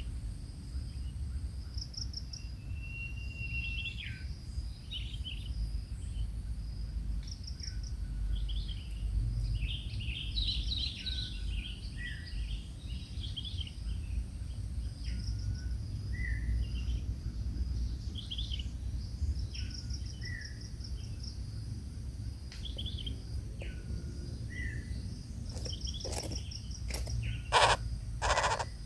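Birds calling: short, high chirping calls repeated every second or two, many ending in a quick downward slide, over an insect's steady high buzz. A few sharp knocks sound near the end.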